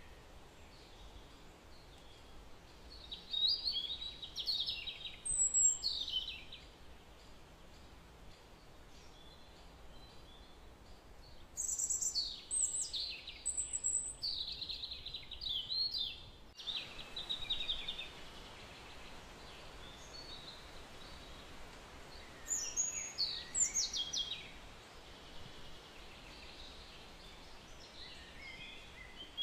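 Birds chirping and twittering in several short bunches of quick, high calls, a few seconds apart, over a faint steady hiss.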